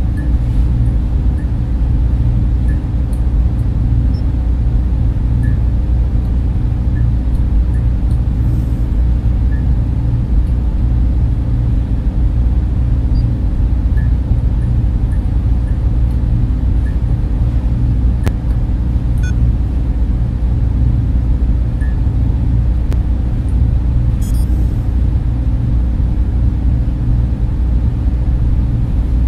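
Server room cooling fans running: a steady, deep whooshing drone that does not change.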